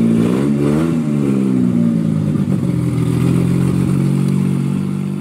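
Car engine revved once, rising in pitch and dropping back about a second in, then running steadily at a fast idle.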